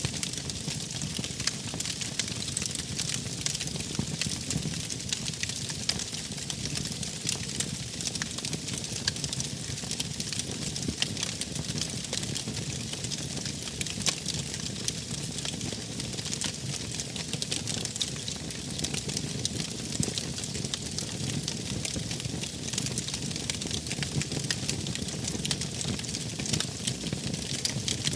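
Wood fire burning: frequent sharp crackles and pops over a steady low rush of flames.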